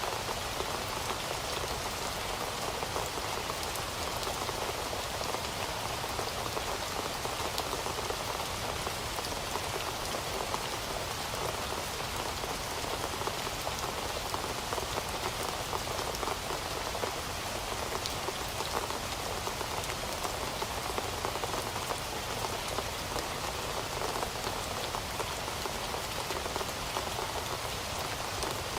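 Heavy rain falling steadily, a dense even hiss of drops striking a surface with fine pattering ticks, unchanging throughout.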